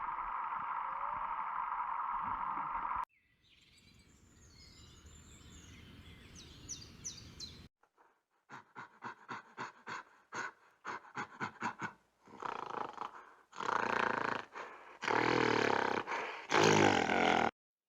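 A series of different animal calls joined by abrupt cuts: a steady buzzing call that stops suddenly, faint chirps, a run of quick pulsed calls, then louder drawn-out calls near the end.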